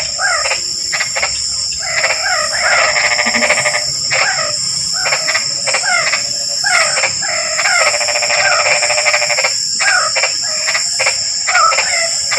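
Frogs calling in chorus after rain: repeated short croaks overlapping, with two longer trilling calls, over a steady high-pitched whine.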